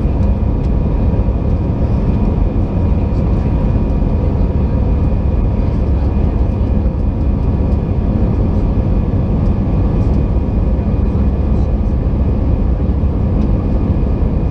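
Airbus A320 cabin noise from a window seat: a steady, loud rumble of jet engines and airflow with a thin, even whine from the engine fans.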